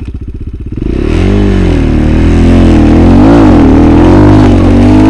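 Motorcycle engine idling with an even pulse, then revved hard about a second in and held at high revs, its pitch wavering up and down.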